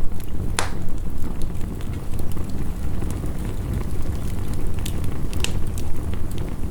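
Wood fire crackling, with a sharp pop about half a second in and a few more near the end. Under it runs a steady low rumble of heavy rain.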